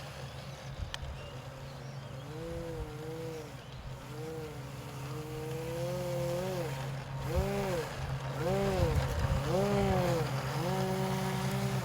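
Electric RC airplane motor and propeller revving up and down repeatedly as the throttle is worked, over a steady low hum.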